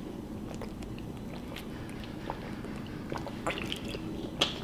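Close-miked chewing and mouth sounds of someone eating soft macaroni and cheese, with scattered small clicks, a few together about three and a half seconds in and a sharper one near the end.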